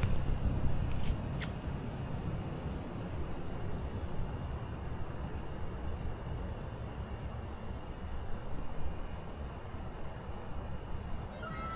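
Steady low outdoor rumble, with two light clicks about a second in.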